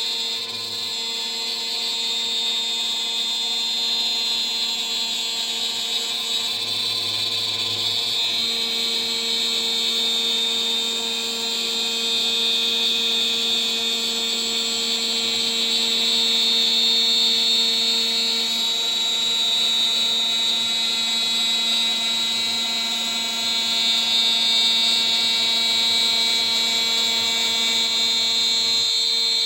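DIY CNC router's spindle running at about 14,000 rpm with a 3 mm three-flute end mill cutting a part: a steady high-pitched whine with several held tones. The lower tones change about eight seconds in and again a little past halfway as the cut moves on.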